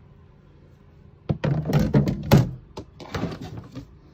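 Camper cabinet doors or drawers being handled: a cluster of knocks and thunks starting about a second in, the loudest a little past two seconds.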